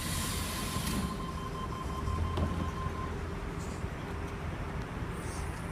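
Sydney Trains Tangara electric train pulling out of the platform: a steady low rumble with a thin, steady high tone over the first three seconds.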